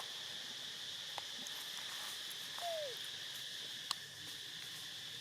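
Steady high-pitched chorus of insects droning. About two and a half seconds in, one short squeaky call falls in pitch, and there are a couple of faint clicks.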